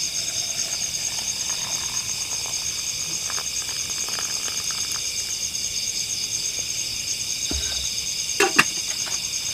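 Forest insect chorus, crickets chirping in a steady, fast-pulsing high trill. A couple of sharp knocks sound near the end.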